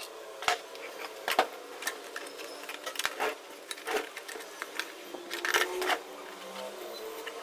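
Irregular clicks and knocks of parts and tools being handled, over a faint steady hum.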